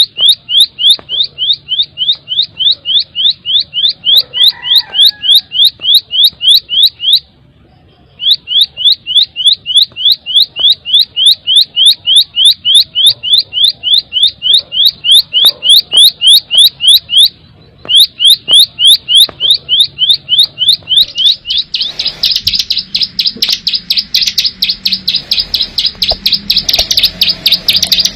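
Ciblek sawah, a prinia, singing its rapid rolling 'ngebren' song: long runs of sharp rising notes at about five a second, broken twice by short pauses. Near the end it turns into a denser, unbroken trill.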